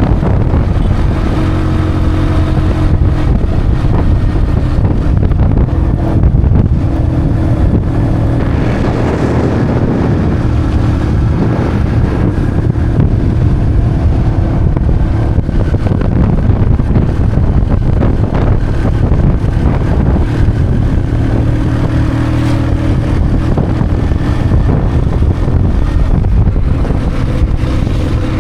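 Small motorcycle engine running steadily while riding, its pitch shifting a few times, with wind rushing over the microphone.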